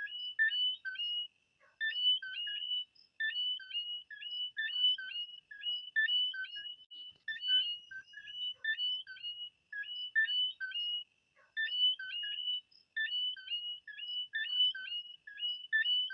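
Frogs calling: rapid high-pitched chirps repeated in a regular pattern, a few notes a second, over a faint steady whistle-like tone.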